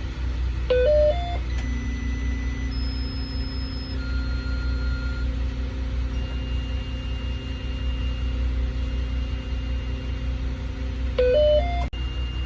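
Bus engine idling steadily, overlaid twice (about a second in and near the end) by a short rising three-note electronic chime, the kind a phone plays when a Bluetooth device connects.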